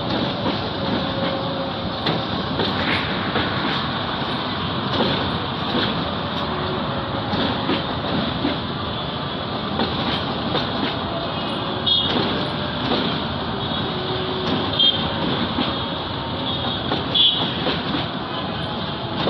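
Bangladesh Railway passenger coaches rolling slowly over the points and curves of a station yard: a steady rumble of wheels on rail with scattered clicks. A few brief high squeals come in the second half.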